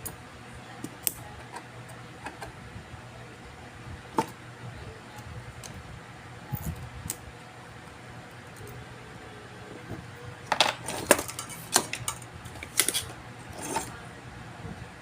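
Small metal tools and parts clinking and tapping on an electronics repair bench: a few scattered clicks, then a quick run of clinks near the end, over a steady low hum.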